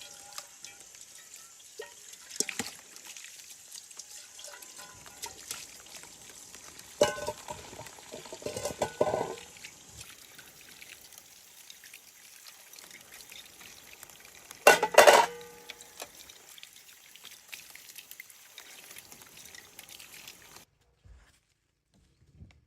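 Water pouring or running, with a few louder knocks and clatters about 7, 9 and 15 seconds in; it stops about two seconds before the end.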